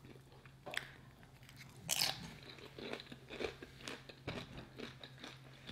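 Close-miked chewing of a mouthful of burrito bowl: soft wet mouth sounds with scattered sharper crunches and clicks, the loudest about two seconds in. A faint steady low hum runs underneath.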